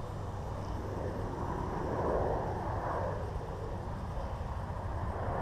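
Wind buffeting the microphone in a stiff outdoor breeze: a steady rumbling rush that swells briefly about two seconds in.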